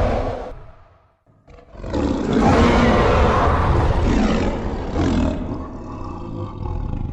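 Giant monster's roar sound effect built on a big cat's roar: the tail of one roar fades out within the first second, then after a brief break a second long roar starts about a second and a half in and trails off near the end.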